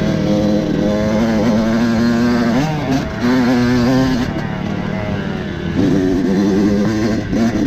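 Dirt bike engine revving up and down, its pitch rising and falling over and over.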